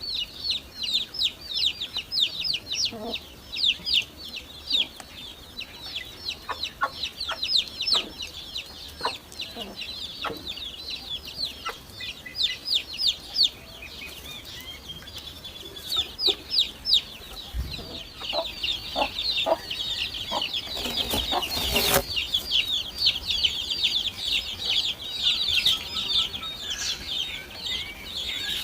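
Nestling birds begging in the nest: a constant chorus of rapid, high-pitched cheeps, with a few sharp knocks and a short loud rustle about three-quarters of the way in.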